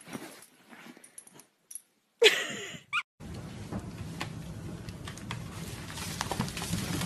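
A small dog gives a short, loud, pitched yelp a little over two seconds in, with a brief second cry just after it. Then a steady hiss with faint clicks follows.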